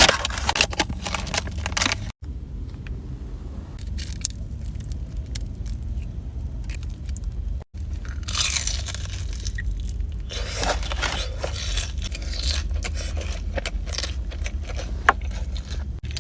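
Close-miked eating of fast food: crunchy bites and chewing, with scraping and handling noises.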